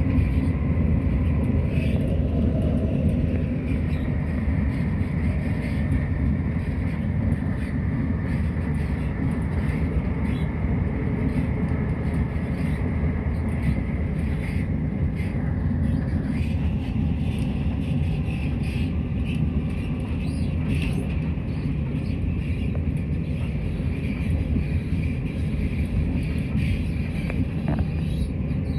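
Inside a Class 170 Turbostar diesel multiple unit running at speed: a steady rumble of the underfloor diesel engine and the wheels on the rails, with a faint high whine.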